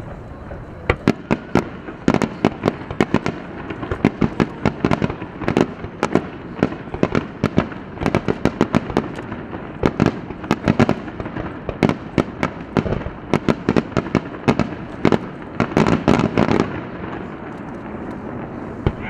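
A fireworks display: shell bursts booming in rapid, irregular volleys, with denser barrages several times, over a steady rumble of echoes and crackle.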